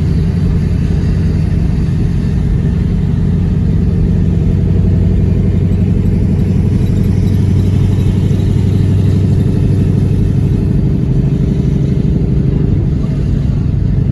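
2020 Shelby GT500's supercharged 5.2-litre V8 running at a steady cruise, a constant engine drone with road noise, shifting slightly in pitch near the end.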